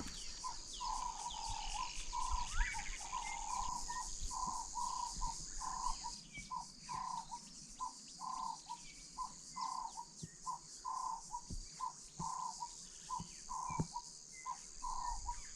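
Night insects trilling steadily, with a short call note repeating about twice a second.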